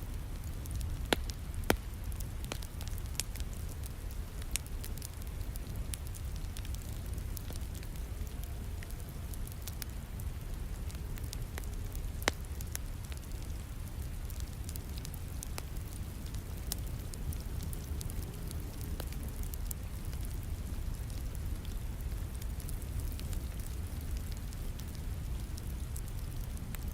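Wood fire crackling in a fireplace, with scattered sharp pops (the loudest about a second in and again near the middle), over a steady hiss of falling rain and a steady low rumble.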